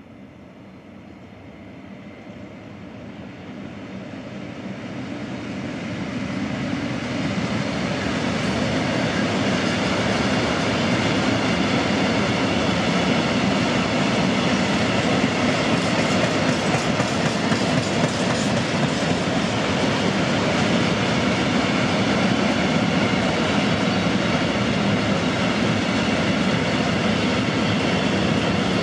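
Freight train hauled by a class 480 electric locomotive approaching and growing steadily louder over the first several seconds. A long string of open box wagons then rolls past close by with a steady rumble of wheels on rail.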